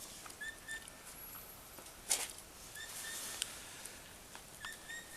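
Shepherd's whistle commands to a working sheepdog: short, high, steady whistle notes, three times, with a brief rushing noise about two seconds in.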